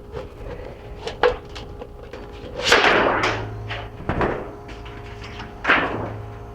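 Thin sheet metal being cut by hand: a few light clicks, then three louder crunching cuts about a second and a half apart.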